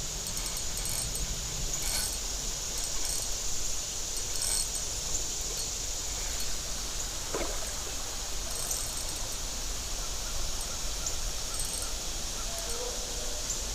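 Steady outdoor creek ambience: a constant hiss of flowing stream water, with a few faint clicks and a brief squeak about seven seconds in.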